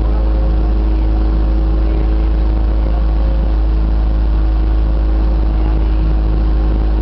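Motorboat engine running steadily under way, a constant hum with a strong low rumble.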